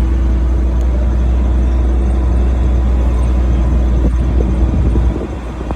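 Vehicle running, heard as a steady low rumble that drops in level about five seconds in.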